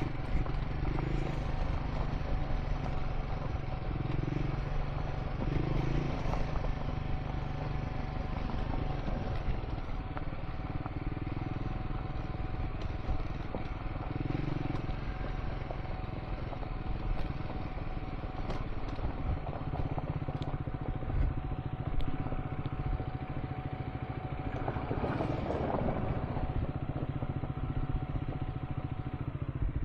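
Triumph Scrambler 400 X motorcycle running steadily while ridden on a dirt track, its single-cylinder engine rumbling under a noisy rush, with scattered short clicks and knocks.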